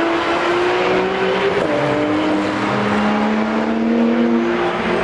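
Several car engines running hard on a race track, overlapping, their pitches slowly rising and falling as they rev and pass.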